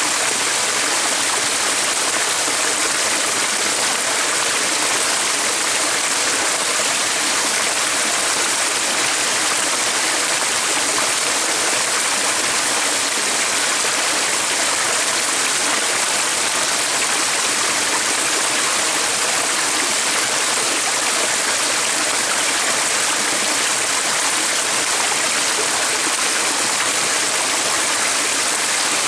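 Running water of a stream: a steady, even rush.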